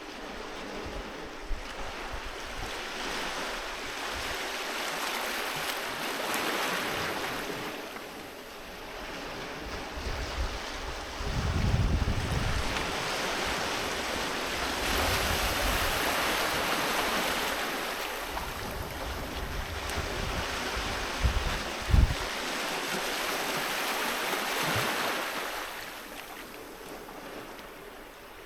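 Sea waves breaking and washing up a beach, rising and falling in broad swells every few seconds. Wind buffets the microphone in low rumbles, most strongly about 11 to 13 seconds in and in a short thump about 22 seconds in.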